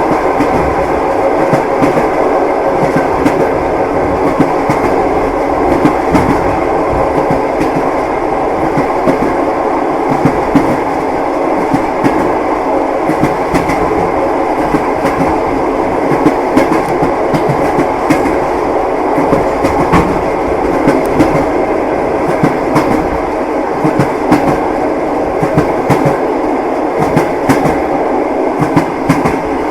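Train wheels clicking over the rail joints on a steady rolling rumble, a continuous clickety-clack of a moving train.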